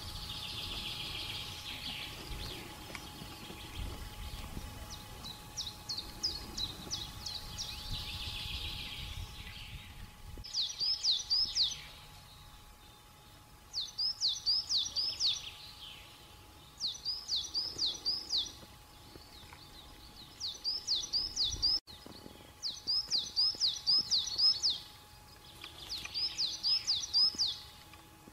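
A songbird singing a short phrase of quick, high sweeping notes, repeated about every three seconds and clearest from about ten seconds in. A low rumbling noise runs under the first third.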